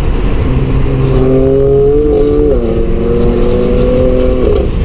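2014 Audi S4's supercharged 3.0-litre V6 heard from inside the cabin, accelerating hard at highway speed. The engine note climbs, dips at an upshift about two and a half seconds in, climbs again, and eases off near the end, over steady road noise.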